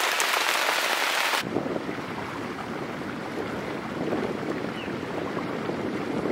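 Heavy rain hissing steadily. About a second and a half in it cuts off suddenly and gives way to a lower, duller steady rumbling noise.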